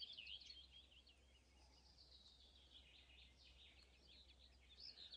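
Near silence outdoors with faint birdsong: quick, repeated chirps and twitters from small songbirds throughout.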